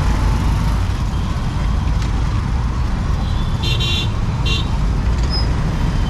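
Steady low rumble of wind and traffic noise from a scooter riding in city traffic. A vehicle horn honks briefly about three and a half seconds in, then gives a shorter honk half a second later.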